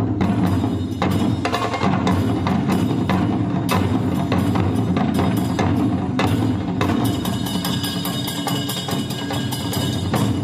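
Traditional Japanese drum ensemble playing a fast, dense beat, with deep drum strokes and many sharp wooden clicks. A steady high tone joins about seven seconds in.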